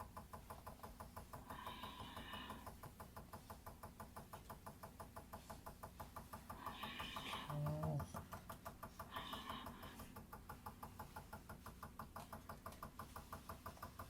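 Faint, steady rhythmic ticking, about five beats a second, with brief faint bits of voice now and then.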